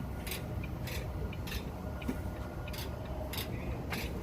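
Semi-truck's engine running with a steady low rumble, under a regular short ticking that comes about every half second or so, once with a gap.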